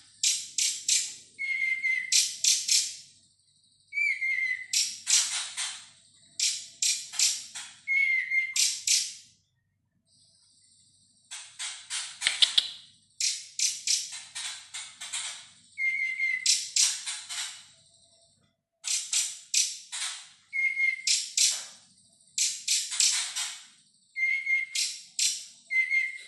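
Young cungkok songbird singing. Each phrase opens with a short whistled note and runs into a rapid, dense chattering trill lasting a second or two. The phrases come again and again, with brief pauses between them.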